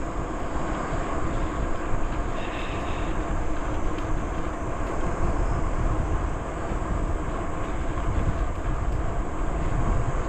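Steady rumbling noise of riding a bicycle along a trail: wind on the microphone and tyres rolling on the path.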